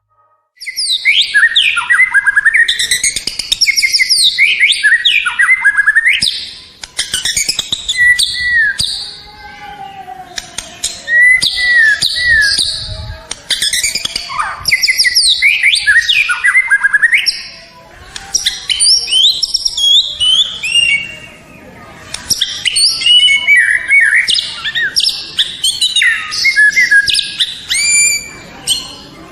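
White-rumped shama (murai batu) singing loudly: a long, varied song of fast whistles, trills and chatter in phrases a few seconds long, broken by short pauses.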